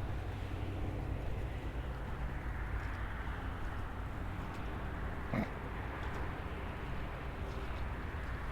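Maxtron Mule folding e-bike riding along: a steady rumble of tyres and drive with a faint motor hum, and one short, louder sound about five seconds in.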